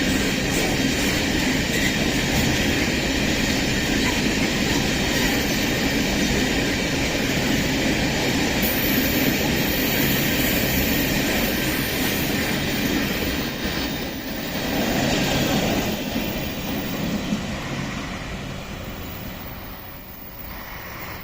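Empty ore wagons of a freight train rolling past on the rails, a steady rumble of wheels on track. It fades over the last several seconds as the train draws away.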